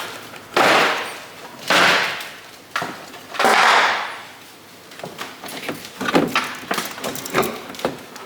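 Car front-end trim being pulled and worked loose by hand: three loud scraping rushes, then a run of light knocks and clicks.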